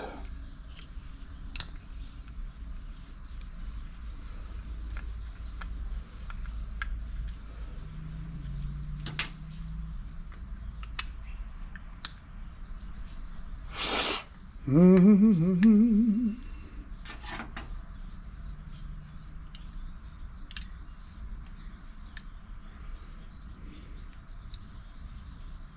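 Small clicks and taps of metal and plastic parts handled by hand while a generator's throttle servo assembly is being taken off. About halfway through there is one louder sudden noise, then a brief wavering tone.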